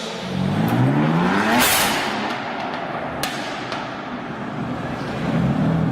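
A car engine revving hard, its pitch rising for about a second and a half, then a burst of rushing noise. A single sharp crack comes about three seconds in, and another engine's steady running note comes in near the end.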